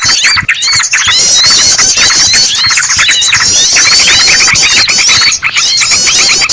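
Loud, dense mix of agitated yellow-vented bulbul calls overlaid with a trapped bird's distress squeals: many rapid, overlapping chirps and squawks without a break. This is a bird-lure recording built to draw small birds in.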